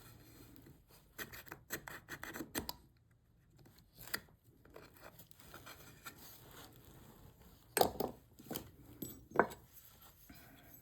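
A hand tool scraping and rasping on cherry wood in short, irregular strokes, with a few louder strokes near the end.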